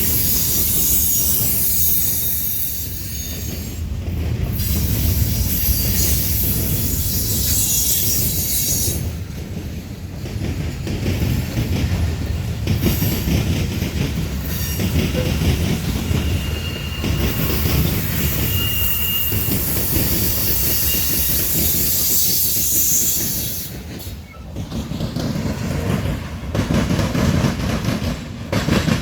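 Freight cars of a Norfolk Southern manifest train rolling past, steel wheels rumbling and clacking over the rail joints, with a faint high wheel squeal partway through.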